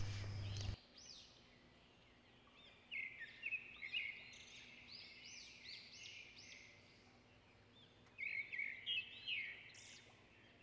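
Faint birdsong: small birds chirping in quick runs of short rising-and-falling notes, in two spells, about three seconds in and again about eight seconds in.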